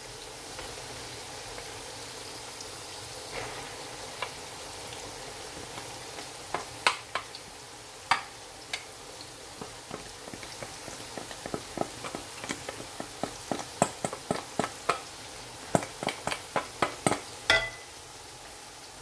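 Onion-tomato masala frying with a steady sizzle in an aluminium pot while raw minced meat is tipped in from a steel colander. A wooden spatula scrapes the mince off and knocks against the colander and pot, giving sharp taps that come faster, several a second, in the second half.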